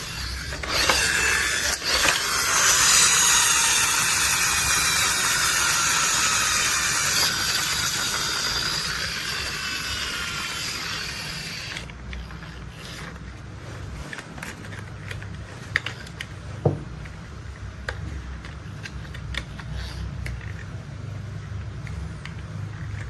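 Plastic toy construction vehicles being worked by hand, their mechanisms clicking and ratcheting. For about the first half a loud hissing whir with faint falling whines runs, then cuts off suddenly, leaving scattered clicks.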